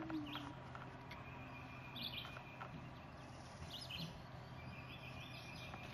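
Faint birds chirping in the background, a few short calls scattered through, over a low steady hiss.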